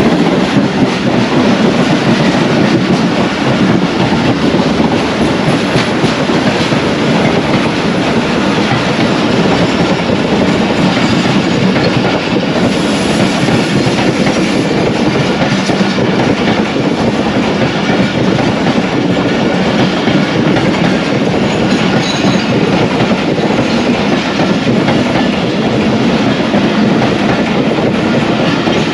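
Pakistan Railways passenger train running at speed, heard from on board: the loud, steady noise of the coach wheels on the track.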